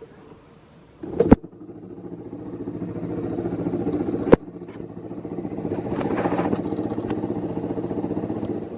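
Yamaha Serow 225's air-cooled single-cylinder four-stroke engine catching about a second in and being revved up, dropping back after a sharp click midway, then revved up again and held before it cuts off at the end. It revs up freely with no abnormal noise.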